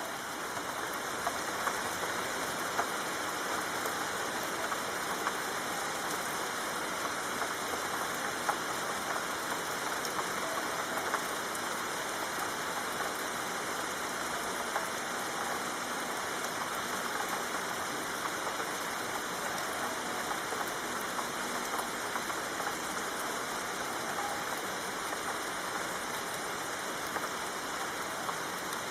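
Soft, steady rain falling: an even hiss with scattered light ticks of single drops.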